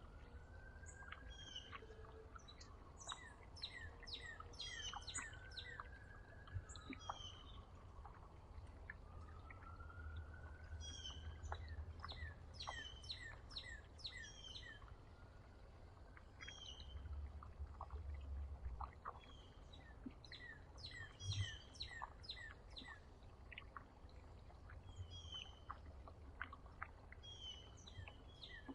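Faint small songbirds chirping, short high calls repeated in quick clusters throughout, over a steady low rumble.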